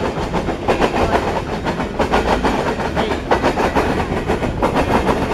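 Empty open-top coal hopper cars of a freight train rolling past with a steady rumble. The wheels click rapidly over the rail joints.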